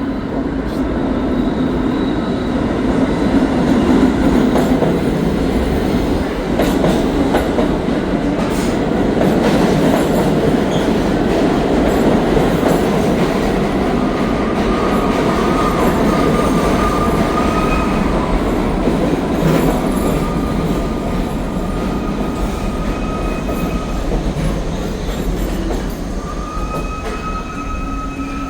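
Subway train running on the rails with a steady loud rumble and clatter. From about halfway in, a high thin wheel squeal comes and goes, climbing a little near the end.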